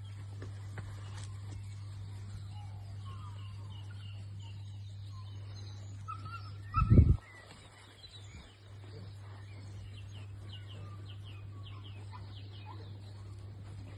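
Small birds chirping faintly over a steady low hum, with one loud, short low thump about seven seconds in.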